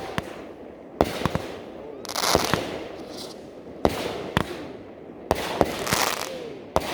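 Consumer fireworks going off: a series of sharp bangs a second or so apart, with crackling and fizzing after several of the bursts.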